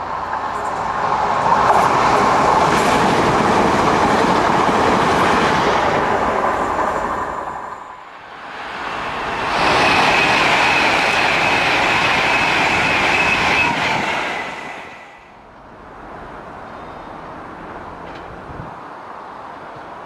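A train running past on the rails, with clickety-clack wheel noise. It is loud for about seven seconds, drops briefly, then is loud again for about five seconds with a steady high whine, before falling away to a quieter rumble.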